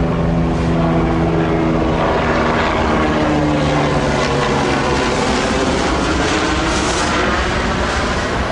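Metrolink commuter train passing close by at speed. Steady low pitched tones from the passing locomotive fade out by about halfway, leaving a loud rush of wheels and rail noise with falling-pitch whines as the cars go by.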